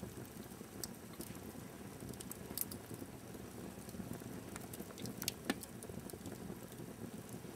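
Wood fire burning in a fireplace: a steady low rumble with scattered sharp crackles and pops, the loudest pops about two and a half and five and a half seconds in.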